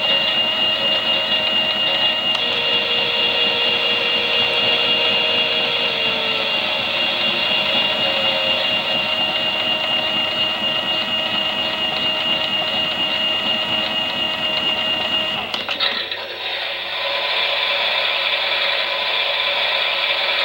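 Small electric motor of a toy Miele Softtronic washing machine running, with a steady high whine. About three quarters of the way through the whine stops abruptly and the motor settles into a different steady running sound.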